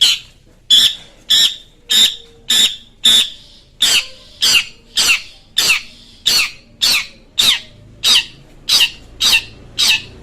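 Long-tailed shrike (cendet) giving a steady run of short, harsh, rasping calls, about one and a half a second, each dropping in pitch.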